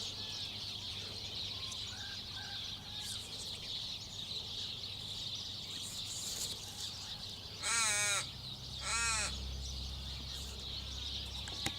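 Two short, harsh bird calls, one about eight seconds in and a second a second later. Under them are fainter distant bird notes and a steady high-pitched background chorus.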